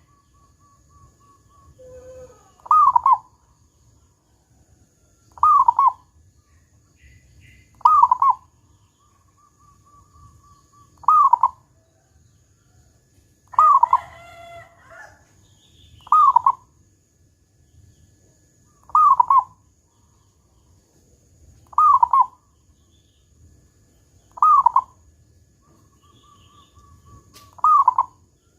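A zebra dove (perkutut) singing its cooing song, a short phrase repeated about every three seconds, some phrases led in by faint rapid notes. About halfway through comes one fuller, different-sounding call.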